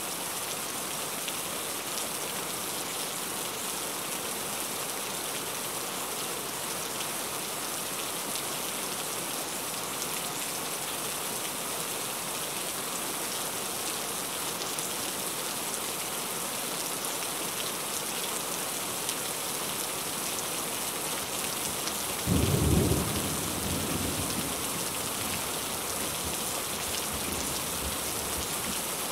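Heavy rain drumming steadily on a car's roof and windshield, heard from inside the car. About two-thirds of the way through, a sudden low rumble lasting about two seconds.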